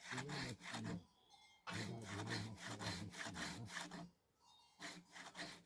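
Hand saw cutting through firewood in quick back-and-forth strokes, stopping twice briefly, about a second in and about four seconds in.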